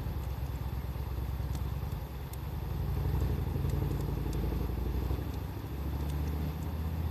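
Low engine rumble of a vehicle, swelling twice, over sparse small crackles from a wood fire.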